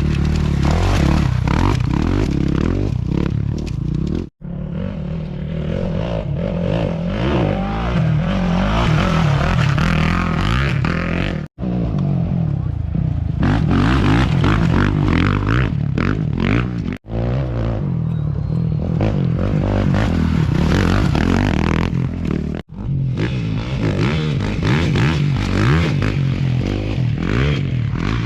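Off-road race motorcycles passing at speed, engines revving, in a run of short clips that cut off abruptly about four times.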